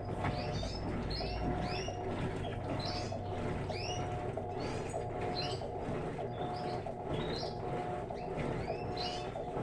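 Electrolux LTE12 top-loading washing machine agitating: the motor and agitator churn the water with a hum that pulses on and off in a steady rhythm, while short high chirps repeat throughout.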